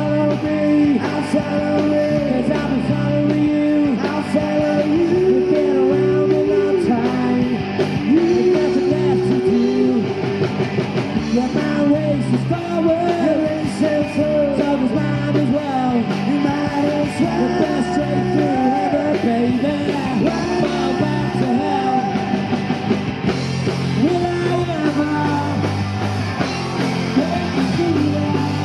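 Indie rock band playing live with a singer: vocals over electric guitar, bass and drum kit.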